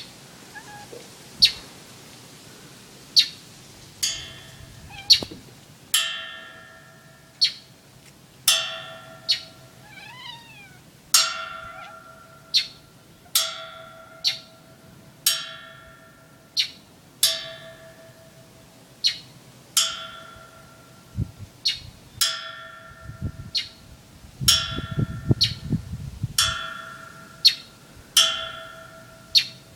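A struck object ringing again and again, a clear ring roughly every one to two seconds that fades after each strike. A bird calls back with a short run of wavering, up-and-down chirps about ten seconds in, and there are a few low knocks later on.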